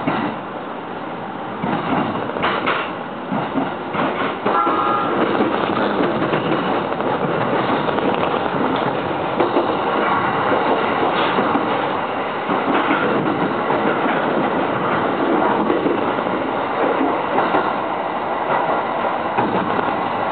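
A JR East Narita Line commuter train running, heard from inside the carriage: steady wheel and running noise with the clack of wheels over rail joints. A brief high tone sounds about four and a half seconds in, and the running gets louder from there on.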